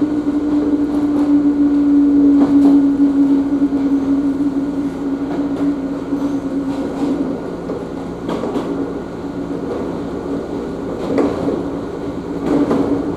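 Ohmi Railway electric train running, heard from on board: a steady hum that drifts slightly lower, with a few clacks of the wheels over rail joints.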